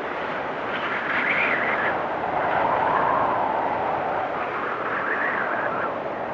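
Blizzard wind blowing in a steady rush, with gusts that swell and whistle about a second in and again near the end.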